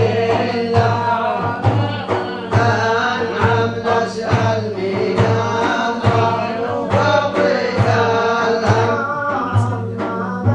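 Man singing a Sufi devotional song (inshad) with a melismatic, wavering melody, over a steady low accompaniment with a regular beat about once a second.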